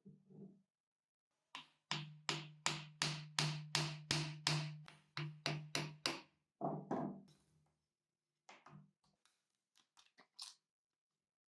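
A run of about a dozen sharp, evenly spaced knocks, some two and a half a second, each with a low ring under it, then one heavier knock and a few light taps near the end.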